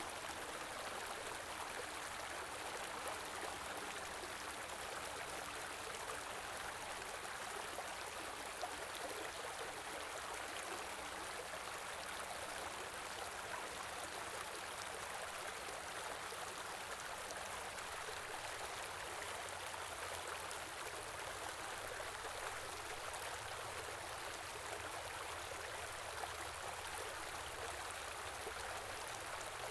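Stream flowing over a rocky bed: a steady, even rush of running water.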